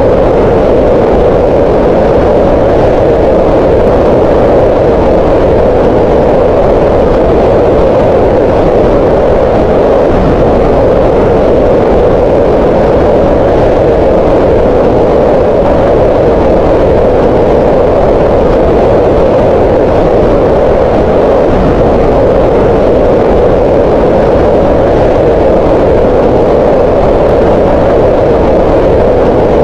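Synthetic green noise: a steady, loud, mid-pitched hiss that never changes.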